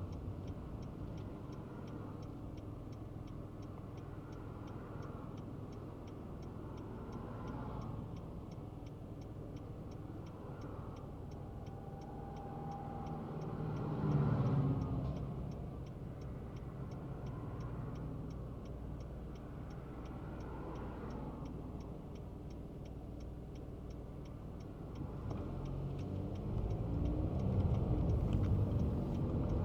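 Kei car's engine and road noise heard from inside the cabin, with the turn-signal indicator ticking steadily about twice a second. A passing vehicle swells up about halfway through, and the engine and road noise grow louder near the end.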